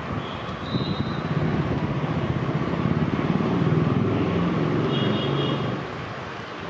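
Passenger train's wheels rumbling and clattering on the rails as it moves away, loudest midway and easing off near the end, with two brief high-pitched squeals, one near the start and one about five seconds in.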